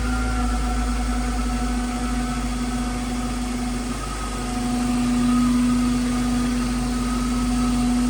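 2002 Ford Thunderbird's 3.9-litre V8 idling steadily.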